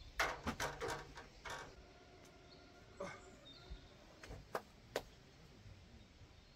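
Clattering knocks of camping gear being handled and packed: a quick cluster of knocks in the first second and a half, some ringing briefly, then a few separate knocks.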